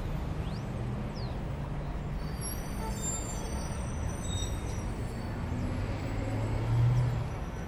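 Steady low rumble of outdoor background noise that swells briefly near the end, with a few faint high chirps.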